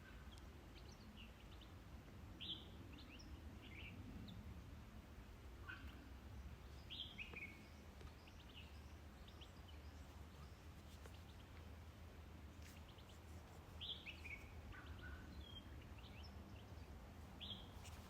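Faint bird calls: short, high chirps that slide downward, coming in small clusters of two or three every few seconds, over a steady low background rumble.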